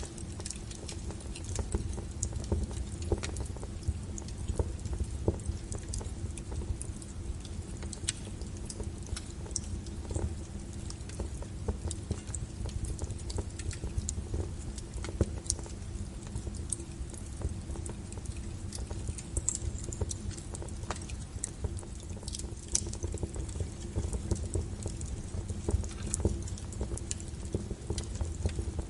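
Log fire in a fireplace crackling: irregular sharp pops and snaps, some louder than others, over a steady low rumble of the flames.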